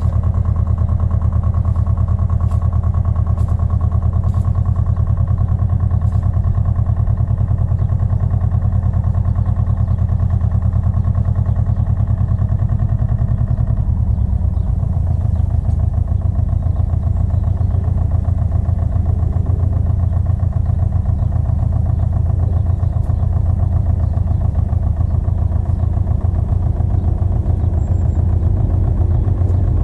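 Pasquali 980 EX compact tractor engine running steadily, with its note shifting slightly about halfway through.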